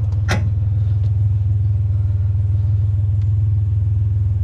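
Truck engine idling with a steady low rumble, and one sharp knock near the start.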